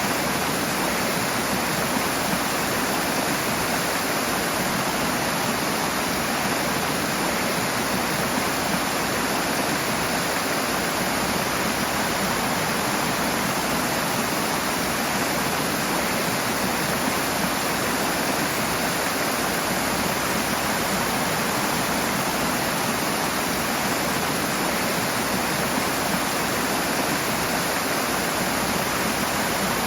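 Rushing water, a fast stream or small waterfall, pouring in a steady, unbroken wash.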